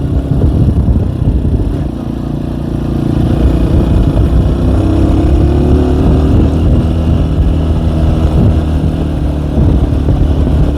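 Tomos ATX moped's small two-stroke engine running hard on a climb. The engine note dips about two seconds in, then rises again and holds steady.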